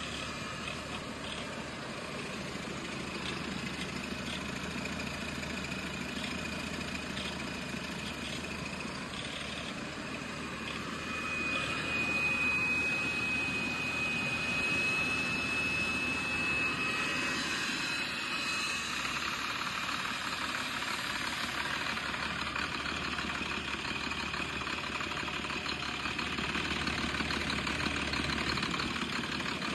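2013 International MaxxForce 9 9.3-litre inline-six diesel engine running on a run test. It is steady at first, grows louder about a third of the way in and holds there, with a high steady whistle for several seconds in the middle.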